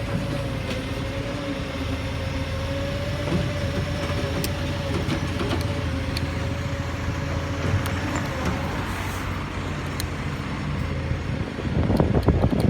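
Garbage truck's diesel engine running steadily, with a steady whine above the rumble that fades out about two-thirds of the way through; louder, rougher noise starts near the end.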